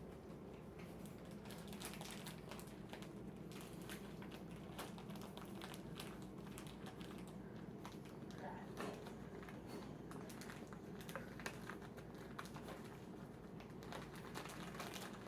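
Light, irregular tapping and clicking of a pet blue jay pecking and playing with a small bead, over a steady low hum.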